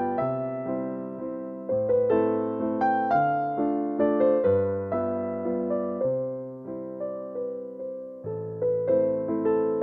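Background music: a gentle melody played on piano or electric piano, each note struck and then fading.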